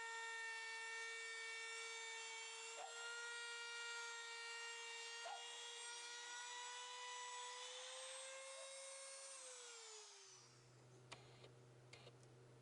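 Electric power tool's motor running at high speed with a steady whine, then switched off and winding down about ten seconds in. A low hum and a few light clicks follow near the end.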